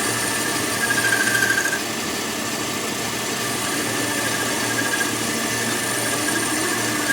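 A small electric power tool running steadily with a high whine, which swells and pulses briefly about a second in.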